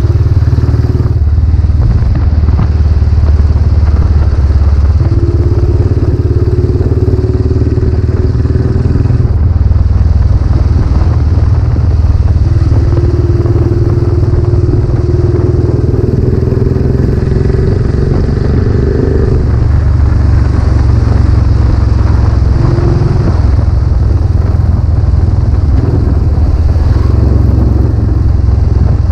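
Royal Enfield Classic 500's single-cylinder engine running through its newly fitted aftermarket silencer while the bike is ridden. It makes a loud, steady low exhaust note, and a higher tone comes in twice, from about five and about twelve seconds in, rising slightly the second time.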